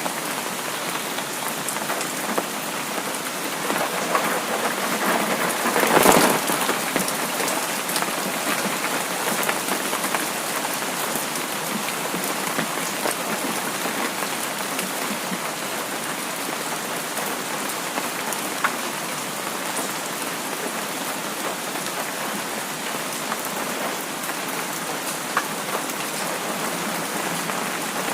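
Steady rain falling and pattering, an even hiss, with one louder swell that builds and fades about six seconds in.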